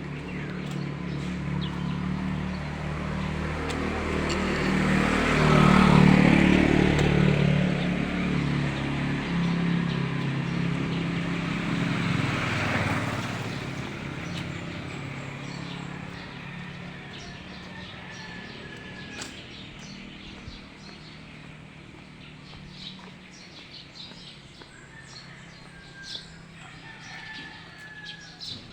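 A motor vehicle passing by on the road, its engine growing louder to a peak about six seconds in, then fading away over the next ten seconds. Birds chirp faintly once it has gone.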